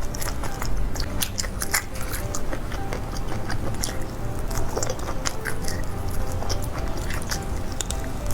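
Close-up chewing and biting of fried skewer food, with many quick, crisp crunches at an irregular pace.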